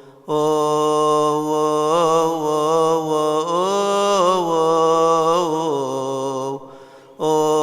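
A male deacon's solo voice chanting a Coptic Orthodox hymn unaccompanied, drawing long held vowels through slow melismatic turns. He pauses briefly for breath just after the start and again about a second before the end, then carries on.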